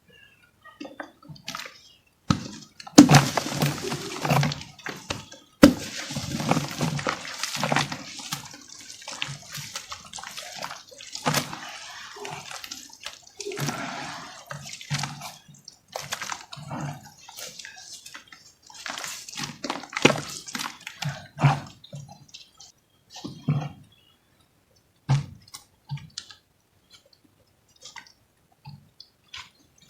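Dry chunks of cement or dirt being dipped in water and crumbled: irregular wet crunches, crackles and drips with soft thuds, sparser near the end.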